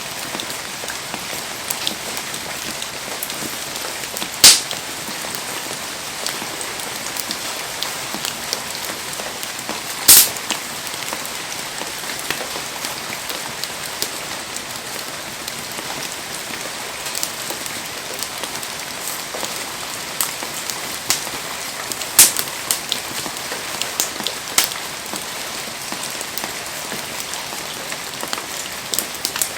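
Heavy rain falling steadily. It is broken by a few sharp cracks, the two loudest about four and ten seconds in, and more near twenty-two and twenty-five seconds.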